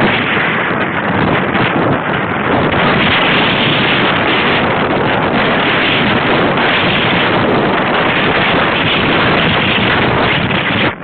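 Wind rushing over a small wearable camera's microphone while riding a bicycle: a loud, steady rushing noise that drops away briefly at the very end.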